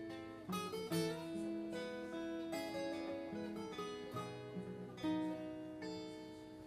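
Acoustic guitar strumming chords in an instrumental break of a folk song, the chords changing every second or two.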